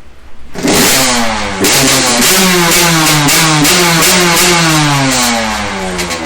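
Dirt bike engine revved hard in neutral, picking up sharply about half a second in, then held high in a run of revs whose pitch slowly falls toward the end.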